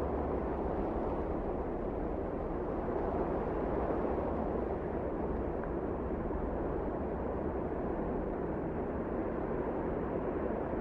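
Steady wind blowing, a low rushing noise that swells slightly about four seconds in.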